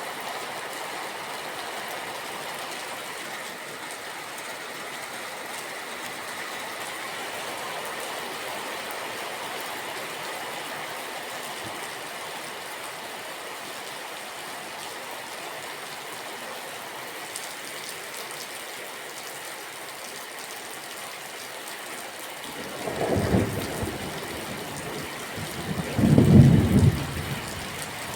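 Steady rain falling, with two low thunder rumbles rolling in near the end, the second one louder.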